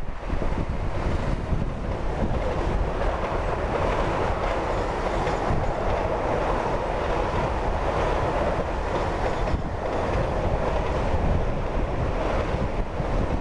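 Container wagons of a freight train rolling past, with a steady noise of steel wheels on the rails.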